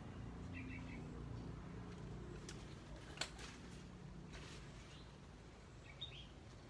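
Faint garden ambience with a small bird chirping twice, about half a second in and again near the end, and a few sharp clicks in between, the loudest about three seconds in.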